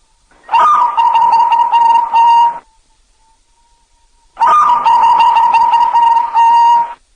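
Zebra dove (perkutut) cooing: two phrases of about two seconds each, each a run of quick coos on a steady pitch. The second phrase begins a little after four seconds in.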